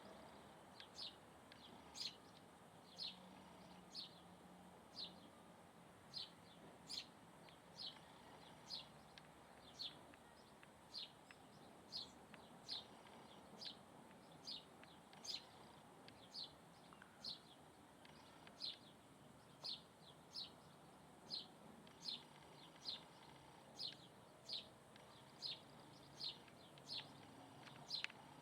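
A bird calling the same short, high chirp over and over, each a quick falling note, about three every two seconds.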